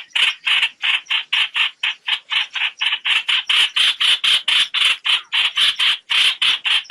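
Trao trảo bird giving its flock-gathering call: an unbroken run of short, harsh notes, about four a second, played as a lure call for net trapping.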